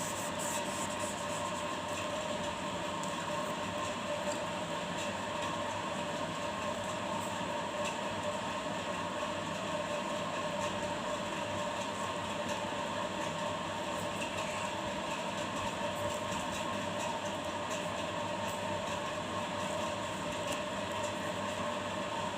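Steady mechanical hum and whir with a couple of constant tones, unchanging throughout.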